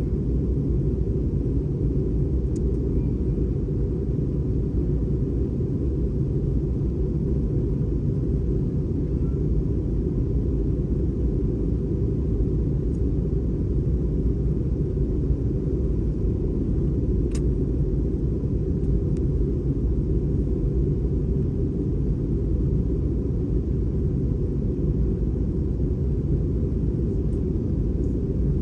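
Airbus A320 cabin noise in flight: a steady low rumble of engines and airflow, with a faint steady tone above it and a light click about two-thirds of the way through.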